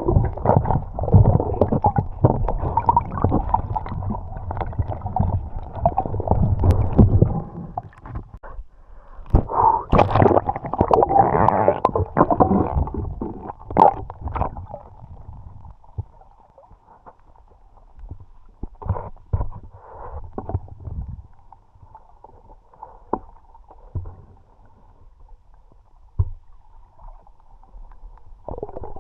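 Water sounds picked up by an underwater action camera: muffled gurgling and sloshing with scattered knocks, heavy for the first several seconds and again in a burst near the middle, then much quieter with only occasional clicks.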